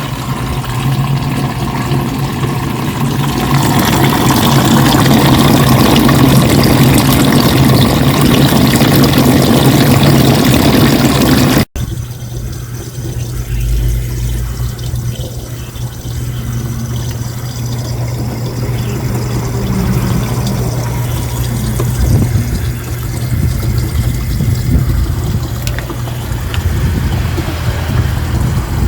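Washing machine running: rushing, pouring water over a steady motor hum, loud for the first ten seconds or so. After an abrupt cut it continues quieter, the hum still there with irregular water noise.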